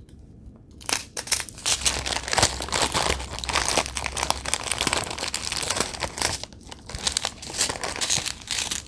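Small plastic bags of diamond painting drills being handled and crinkled, starting about a second in.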